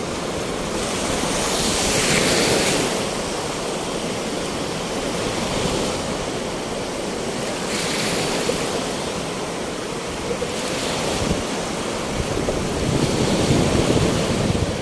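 Sea surf, with waves breaking every few seconds, each swelling into a loud hiss over a steady wash of water. Wind buffets the microphone, with low rumbling strongest near the end.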